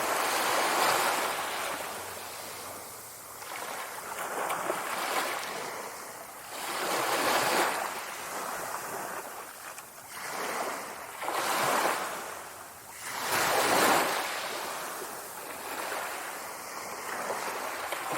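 Sea waves washing in and drawing back, each swell rising and fading over a couple of seconds, about six swells in all.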